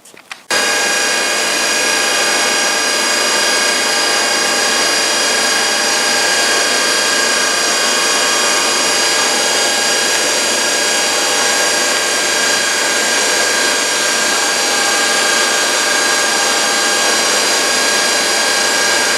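An electric motor running steadily, a loud even hiss with a whine of several fixed tones. It starts abruptly and cuts off near the end.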